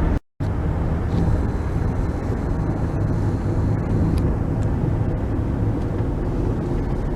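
Steady low rumble of a car driving, engine and tyre noise heard from inside the cabin, after a split-second dropout to silence right at the start.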